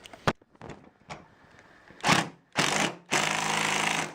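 Power driver with a quarter-inch nut-driver bit running a fastener into a garage door bracket, pulling it in: a couple of short runs, then a longer run of about a second that stops abruptly. A few small clicks come first.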